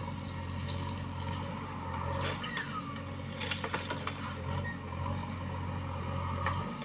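Heavy diesel machine engine running steadily, with a few sharp knocks and clanks around the middle and a brief falling squeal. The engine note drops shortly before the end.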